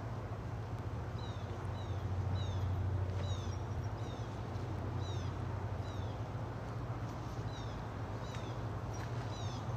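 A bird calling over and over in short, high, downward-slurred chirps, about one or two a second, over a steady low hum and background hiss.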